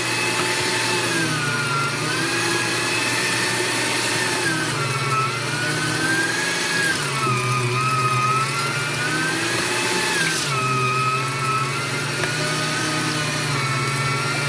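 AARTVARK TEES electric meat grinder running as it grinds beef, a steady motor whine whose pitch rises and falls repeatedly.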